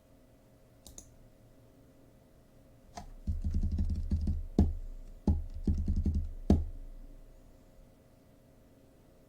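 Typing and clicking on a computer keyboard: a short run of keystrokes starting about three seconds in, with a few sharper, louder strikes, stopping a couple of seconds before the end.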